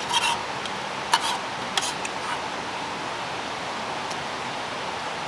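Steady rush of a mountain valley stream, with a few short clicks near the start and about a second and two seconds in.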